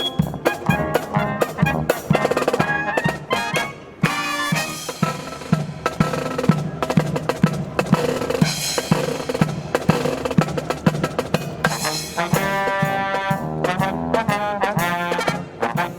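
Marching brass band playing live: trumpets and other brass over a steady snare and bass drum beat. The brass chords grow stronger near the end.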